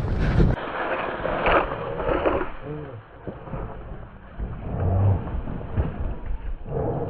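Wind buffeting the microphone for a moment, then a few short, faint animal calls over outdoor rustling.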